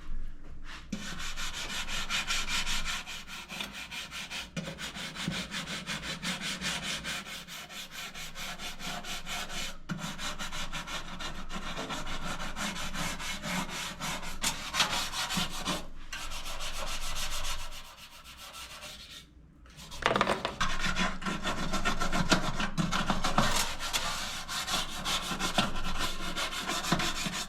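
Rapid back-and-forth scrubbing with baking soda on a greasy toaster oven surface, a gritty rubbing in quick strokes. It stops briefly about two-thirds of the way through, then resumes.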